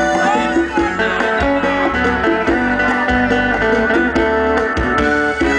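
Live sertanejo band playing an instrumental passage led by guitar, over a steady low beat.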